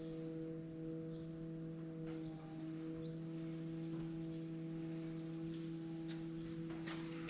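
Faint steady hum made of a few steady tones over a low hiss, with a few light clicks near the end.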